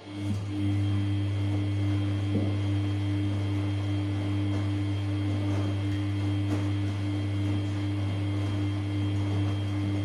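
Samsung P1271 washing machine: a loud, steady electrical hum switches on suddenly, with a light wash of water noise and a few small knocks behind it.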